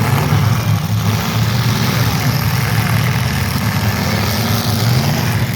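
Engines of old-iron demolition derby cars running with a loud, steady low rumble.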